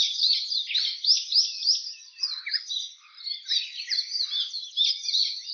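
Many birds chirping at once: a dense, unbroken run of short, high chirps overlapping one another.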